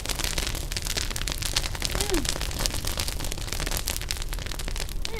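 Campfire crackling, with dense, rapid sharp pops. A short falling voice sound comes about two seconds in.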